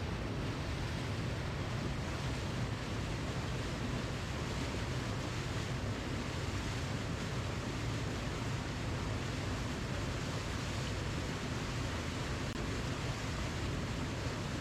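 Waterfall: a steady rush of falling water, even and unbroken, heaviest in the low end.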